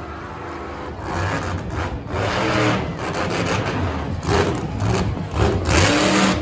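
Monster truck engine revving hard in repeated surges of throttle, each about a second long, with the loudest bursts near the end.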